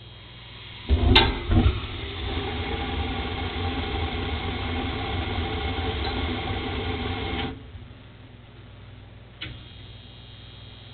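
Gas burners of a 1985 Rheem furnace lighting with two sharp pops about a second in, then burning with a steady rushing sound for about six seconds before cutting off abruptly. A single click follows near the end.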